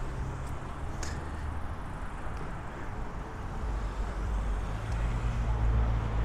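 Road traffic passing steadily, with a vehicle's low engine rumble building louder in the second half.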